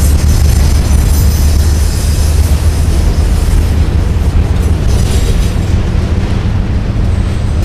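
CSX freight train of autorack cars rolling past, a loud steady rumble of wheels on rail, with a brief high-pitched wheel squeal about five seconds in.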